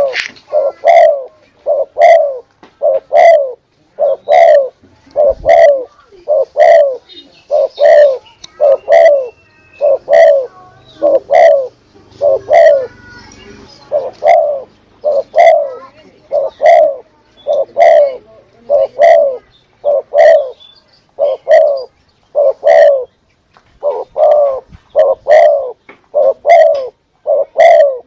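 Spotted dove (tekukur) cooing as a hunting lure call: short coos repeat about once a second, each opening with a sharp click. There is a brief break partway through.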